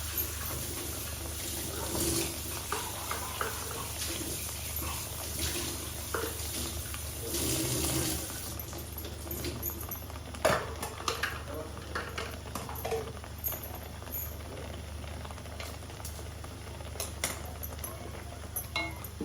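Water poured from a jar into a pan of frying onion paste, with a hissing pour for the first eight seconds or so, then scattered knocks and clinks against the pan. A steady low hum runs underneath.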